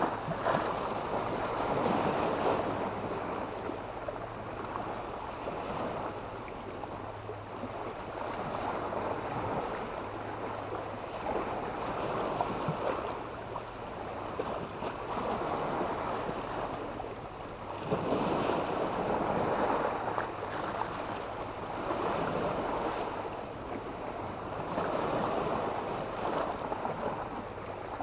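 Sea waves breaking and washing up a beach of black stones, the surf swelling and fading every few seconds.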